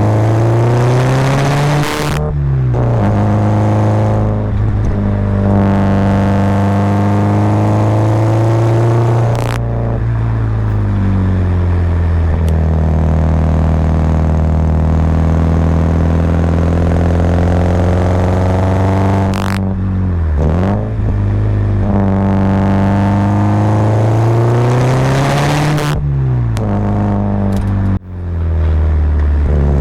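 Subaru Impreza WRX's turbocharged flat-four boxer engine under load, with the revs climbing and then dropping sharply several times as it accelerates and changes gear through the manual gearbox.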